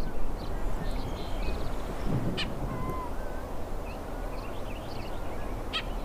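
Bird calls: scattered short chirps and whistled notes, with two brief harsh calls, one midway and one near the end, over a steady low background hiss.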